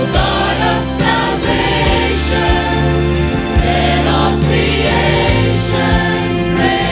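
Choir singing a Christmas song with instrumental accompaniment.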